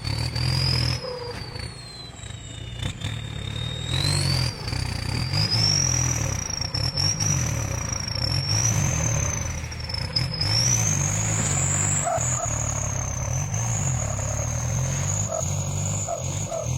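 Tractor diesel engine running hard under load as it pulls at a tree, with a high whine that rises and falls slowly.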